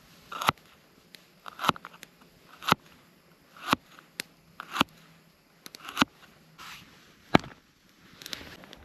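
Dry wood snapping: a series of sharp cracks, roughly one a second, some with a brief rustle just before the snap.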